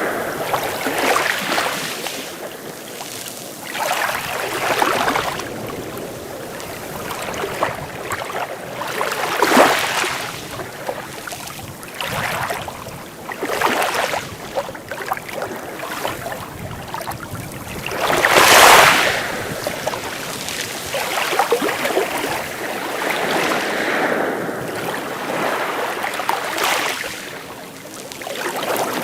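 Sea waves breaking and washing in, a hiss that swells and falls back every few seconds, with one bigger wave about two-thirds of the way through.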